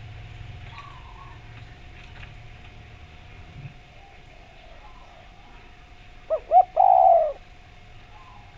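Spotted dove (derkuku) cooing one song phrase about two-thirds of the way in: two short coos, then a longer, louder rolling coo. A faint steady tone runs underneath.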